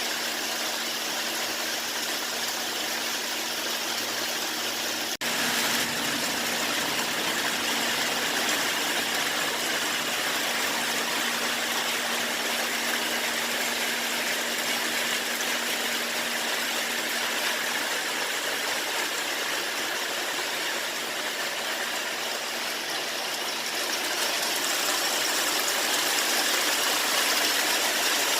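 Steady rain falling, an even hiss with a faint low hum beneath it, briefly interrupted about five seconds in and growing a little louder near the end.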